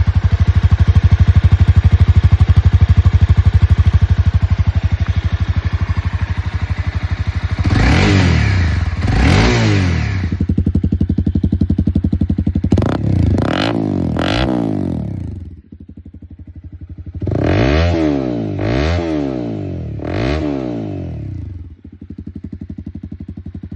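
Honda CBR300R's single-cylinder engine running through a LeoVince LV-10 slip-on exhaust: a steady idle, then blipped in quick revs, two about eight seconds in, three more around thirteen to fourteen seconds and another three near eighteen to twenty seconds, each time dropping back to idle.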